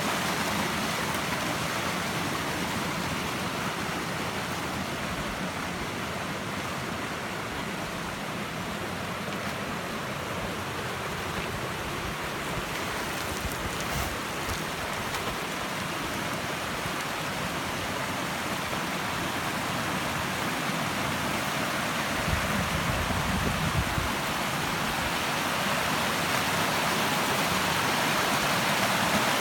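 Steady rushing of flowing water, a continuous even wash of sound. A brief low rumble comes in about three-quarters of the way through.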